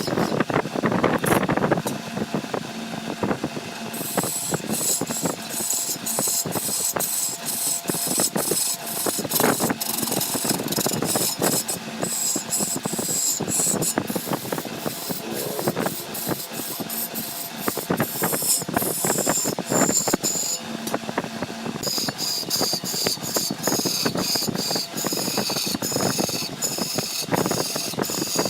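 Woodworking machinery running with a dense, rapid clatter of clicks and knocks and a high whine that comes and goes.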